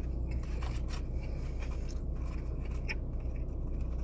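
Someone eating fries: faint chewing with small scrapes and clicks as fries are picked from a paper tray, over a steady low hum.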